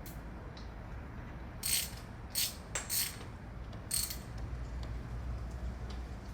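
Socket ratchet wrench clicking in four short strokes, about half a second apart, as it turns a bolt on the motorcycle's front end. Between the strokes a few single faint tool clicks sound.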